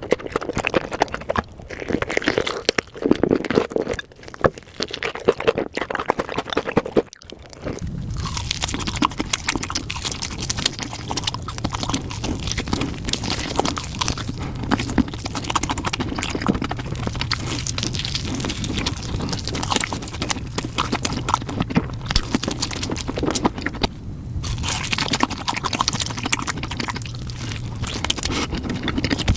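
Close-miked chewing and biting on a spicy chicken leg: crunchy bites and wet mouth clicks. After about seven seconds a low steady hum runs under the chewing.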